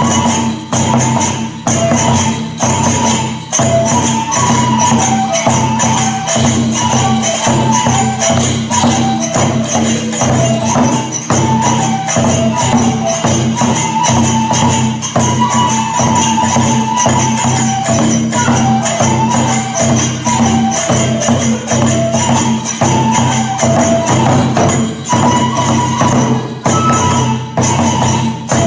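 Kagura music for a shrine dance: a high bamboo flute melody over steady taiko drumbeats and the continuous jangle of small hand cymbals.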